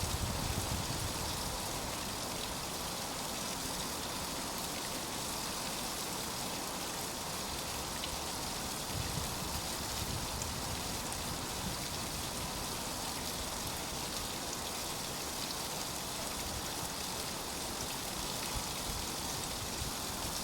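Steady, even hiss with no distinct events, of the kind made by rain or running water.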